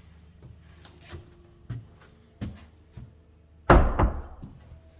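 An interior door thumps shut about three and a half seconds in, with a few lighter knocks before it.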